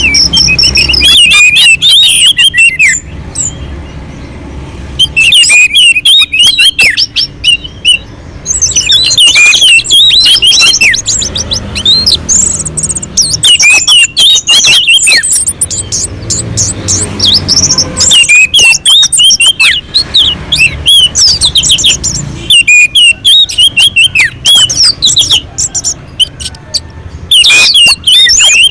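Orange-headed thrush (anis merah) singing continuously: phrase after phrase of rapid, varied whistles and chirps that sweep up and down, with short breaks between phrases. A low steady hum runs underneath.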